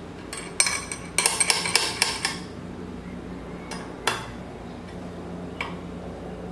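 Metal parts and hand tools clinking against each other: a quick run of sharp clinks for about two seconds, then a few single taps. A steady low hum runs underneath.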